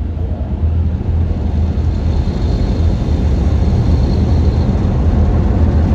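Car wash air dryer blowers running: a steady low rush of air that grows slightly louder, with a faint high whine in the middle.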